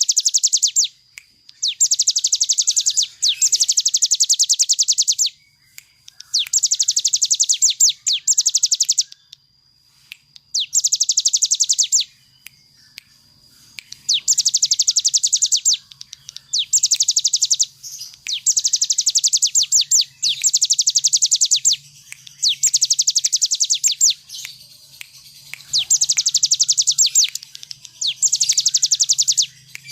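Ciblek gunung (a prinia) singing its rapid drilling trill, the 'ngebren' song, in loud bursts of one to two seconds separated by short pauses, about a dozen times.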